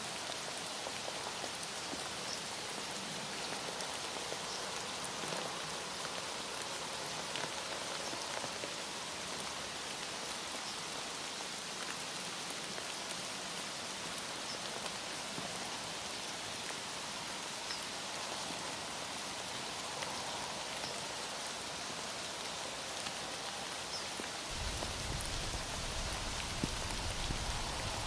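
Steady heavy rain, an even hiss with scattered drop ticks. A low rumble joins near the end.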